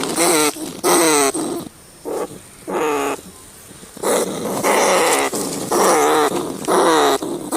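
Rats squealing: a run of short, pitched cries that bend in pitch, coming in quick clusters with a lull in the middle.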